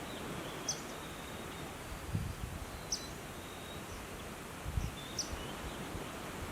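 Outdoor nature ambience: short high bird chirps every couple of seconds over a steady hiss, with a few soft low thumps.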